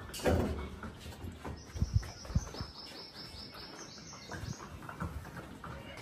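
A small bird chirping in a quick run of high, evenly spaced chirps, about four a second, for a couple of seconds in the middle. A few knocks and clinks of metal parts come as a turbocharger is fitted onto a tractor engine, the loudest just after the start and about two seconds in.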